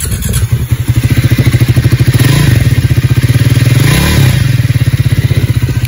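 Triumph Speed 400's 398 cc single-cylinder engine just started and idling through its stock single exhaust, with evenly spaced firing pulses and one short throttle blip about four seconds in. It sounds smooth and very refined.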